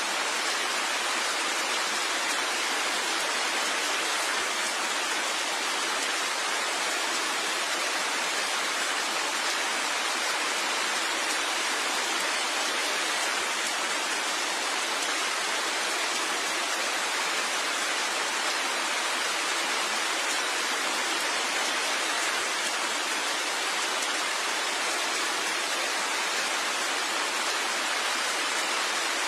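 Steady, even rain, a dense hiss of falling water with no single drops standing out.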